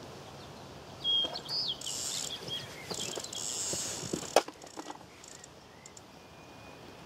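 A small bird singing short whistled, gliding phrases for a few seconds over a steady outdoor background, with several sharp clicks, the loudest about four seconds in.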